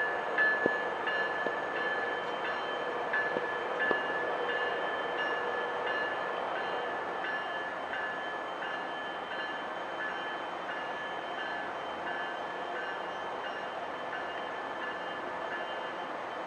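GO Transit commuter train departing, pushed by a MotivePower MP40PH diesel locomotive: steady train noise with a repeating high ringing tone and a few sharp knocks in the first four seconds, easing off slightly.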